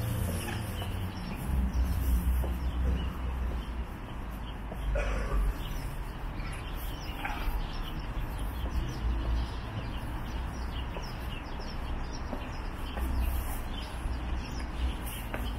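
Outdoor ambience: a steady low rumble with a few short bird calls, about five and seven seconds in.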